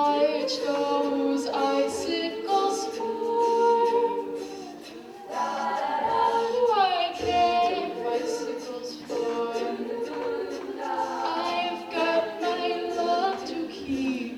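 A cappella vocal group singing in close harmony, several voices with no instruments, a sustained low bass-like note underneath.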